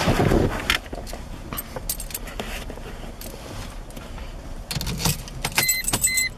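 Keys jangling, with clicks and rattles as the ignition key is handled in the Chrysler Crossfire. Near the end the car's electronic warning chime starts, a repeated high beep.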